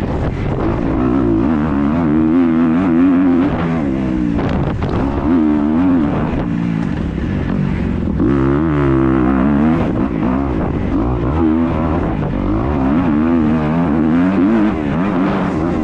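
Yamaha YZ250F four-stroke single-cylinder dirt bike engine revving hard on a motocross lap, the pitch climbing and dropping over and over as the rider accelerates, shifts and rolls off for corners.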